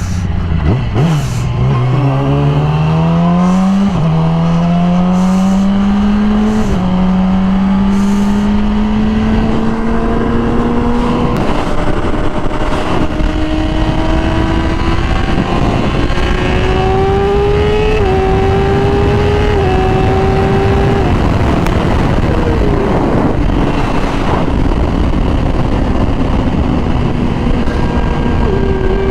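Yamaha R6 inline-four sport bike with an aftermarket Graves exhaust accelerating through the gears. The engine pitch climbs and drops back at three upshifts, about four, seven and eleven seconds in, then rises more slowly and holds at cruising speed, over a steady rushing noise.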